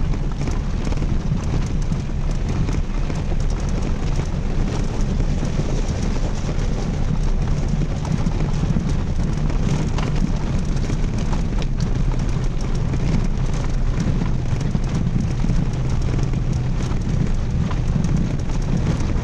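A vehicle's engine running steadily while travelling, a constant low drone under a wash of wind and rolling noise.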